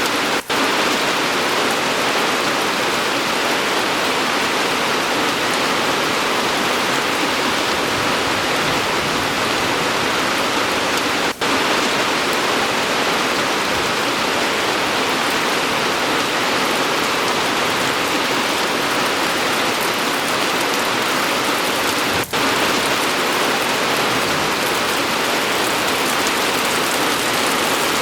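Steady rain pouring down, with three momentary drops in level about eleven seconds apart.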